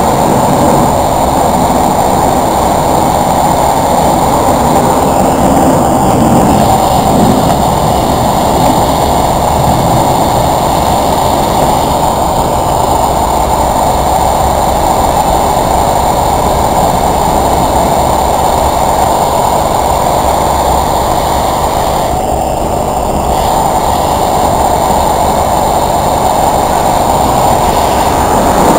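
Airbus A319 jet engines running at high power during takeoff, heard as a loud, steady noise with most of its energy low down.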